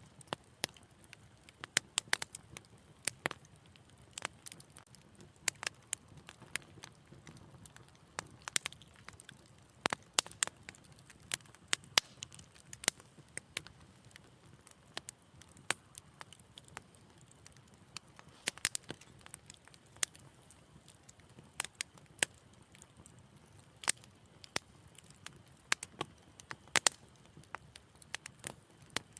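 Fire in a fireplace crackling steadily, with frequent irregular sharp pops and snaps over a faint low hiss.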